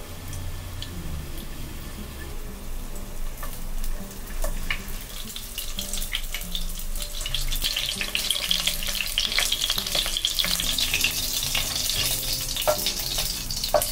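Tempura-battered prawns pan-frying in shallow oil: a crackling sizzle that builds from about four seconds in and is strongest near the end. A few sharp clicks of metal tongs on the pan come as the prawns are turned and lifted out.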